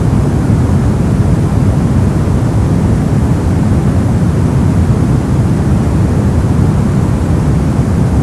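Brown noise: a steady, deep rumbling hiss, heaviest in the bass and falling away toward the treble, with no changes or events.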